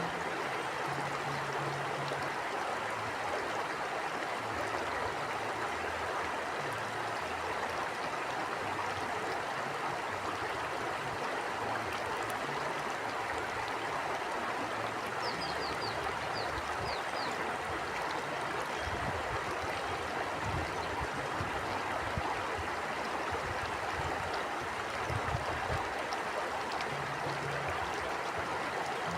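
River water flowing steadily, a continuous even rushing, with uneven low rumbling from wind. About halfway through, a brief run of about six high chirps.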